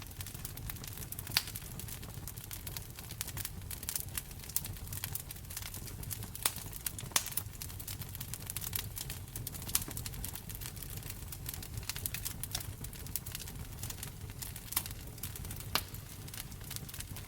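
Wood fire in a fireplace crackling: a constant scatter of small ticks with a handful of louder pops, over a steady low rumble.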